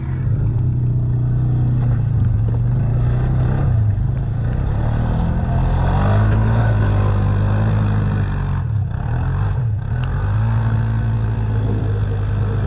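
Pit bike engine running hard, its pitch rising and falling with the throttle, easing off briefly twice about two-thirds of the way through.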